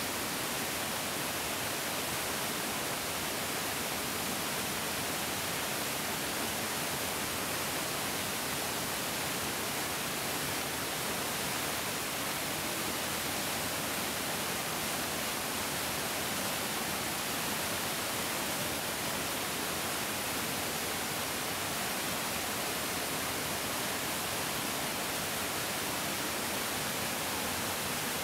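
Mountain stream flowing, a steady, even rushing of water with no change in loudness.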